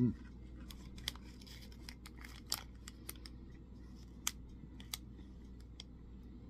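A person chewing a soft raspberry fruit-and-grain bar close to the microphone: faint, irregular mouth clicks and smacks.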